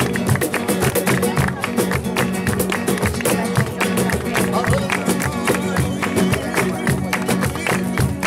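Acoustic guitar strummed in a fast, even flamenco-rumba rhythm.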